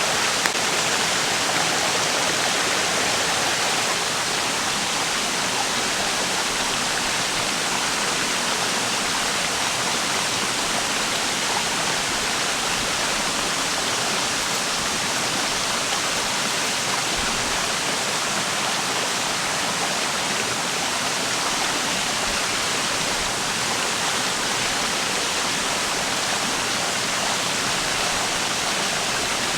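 A river or stream flowing over rocks: a steady, even rush of running water.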